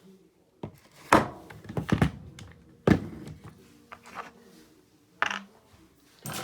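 Hard dryer parts being handled and set down: a string of separate knocks and clunks, the loudest about a second in.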